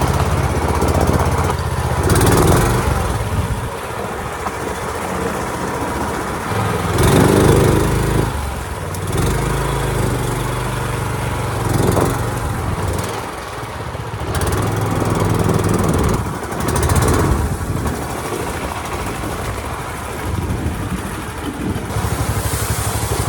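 Longtail mud motor's small gas engine running, revving up and down in repeated surges roughly every five seconds.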